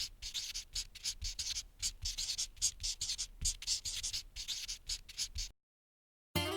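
Scratchy writing sound: short strokes of a writing tool on a surface, several a second, stopping abruptly about five and a half seconds in. Acoustic guitar music begins near the end.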